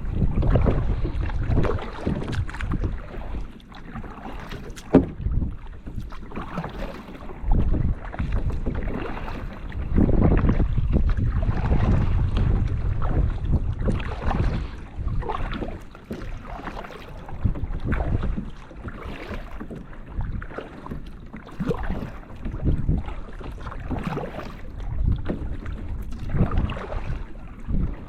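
Wind buffeting the microphone in gusts, with kayak paddle strokes splashing in the water every second or two.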